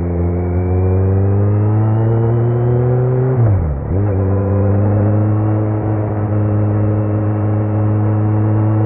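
2018 Kawasaki Z900's inline-four running through a Leo Vince muffler with no dB killer, under way: the revs climb slowly, dip sharply and recover about three and a half seconds in, then hold steady.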